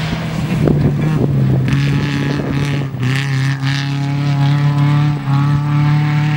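Subaru Impreza RS rallycross car's flat-four engine running hard at fairly steady revs, with a brief dip about five seconds in.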